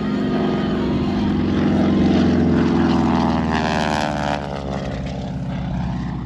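North American T-6 Texan's nine-cylinder Pratt & Whitney radial engine and propeller, the plane flying overhead in an aerobatic display. The engine sound is loudest about two seconds in; after that its pitch falls and it grows quieter as the plane moves away.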